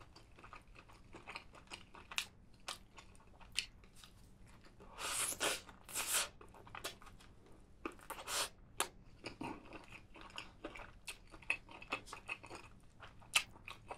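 Close-miked chewing and biting of spicy roasted chicken: a steady run of small wet mouth clicks, with a few louder crunchy bites about five, six and eight seconds in.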